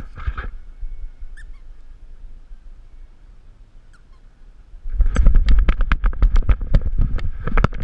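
An action camera strapped to a dog's harness knocking and rumbling as the dog moves: a fast run of sharp knocks with heavy low thumping, starting about five seconds in and lasting to the end. Before that it is fairly quiet, with a couple of faint short chirps.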